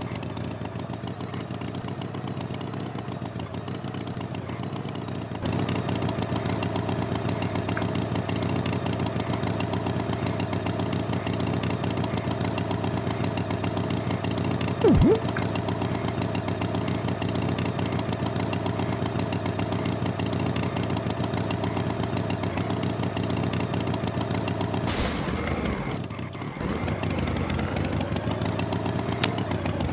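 Tractor engine sound effect running steadily at idle. It gets louder about five seconds in, with a brief loud sound about halfway and a short hiss near the end.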